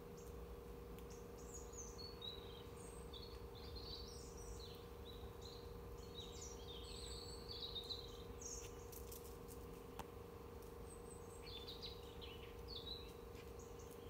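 Birds chirping: scattered short, high calls, busiest in the first half and picking up again near the end, over a faint steady hum.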